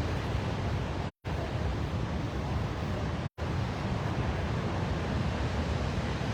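Steady rushing roar of Victoria Falls, heaviest in the low end. It cuts out abruptly to silence for a moment about a second in and again just after three seconds in.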